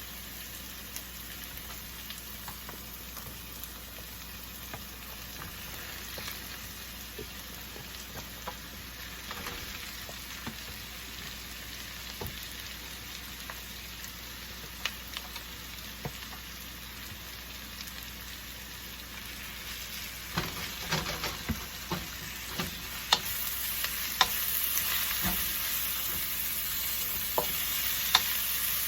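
Shredded chicken frying with sautéed garlic and onion in hot oil in a pan, a steady sizzle. From about two-thirds of the way in, a spatula clicks and knocks against the pan as the food is stirred, and the sizzle grows louder near the end.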